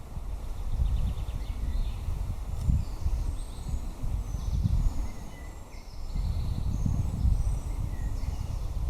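Wind buffeting the microphone in uneven gusts, with birds chirping and trilling faintly behind it.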